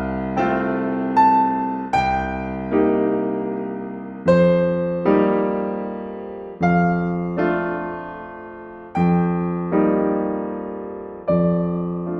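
Slow, gentle solo piano music: notes and chords are struck one after another, each left to ring and die away before the next.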